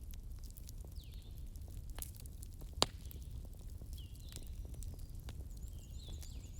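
Wood fire crackling: a low steady rumble of flames with scattered small snaps and one louder pop about three seconds in. A few faint high squeals come and go.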